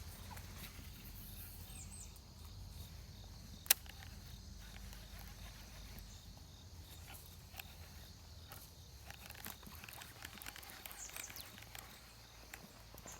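Faint outdoor ambience: a low steady rumble with scattered small ticks, one sharp click about four seconds in, and a few short high chirps.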